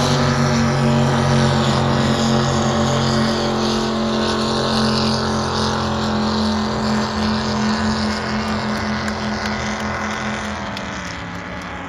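A pair of stock eliminator drag boats racing at full throttle. The engines hold a steady high pitch that slowly fades as the boats run away down the course. About ten seconds in, the pitch drops as they back off the throttle.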